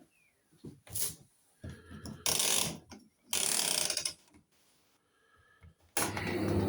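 Hotpoint tumble dryer being worked: scattered clicks and two loud mechanical rattles, then about six seconds in a steady low hum starts as the machine runs.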